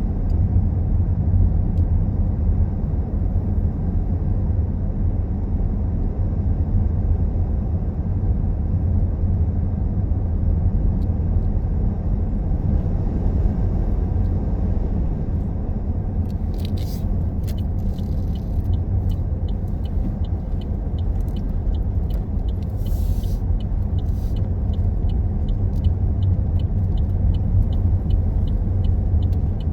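Car driving along a road, heard from inside: a steady low engine and tyre rumble with road noise. In the second half a run of faint, evenly spaced high ticks, about two or three a second, sounds over it, with a few brief crackles.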